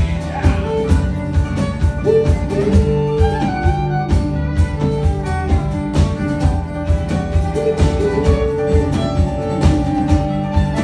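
Live band playing an instrumental break in a country-rock song, with no singing and a steady drum beat under sustained melody notes.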